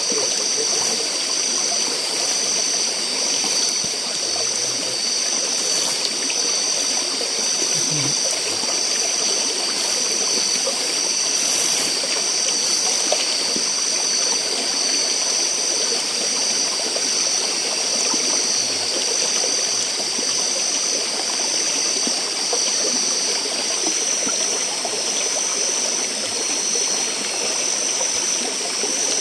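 Forest stream running steadily, with a high pulsing tone over it that repeats a little more than once a second.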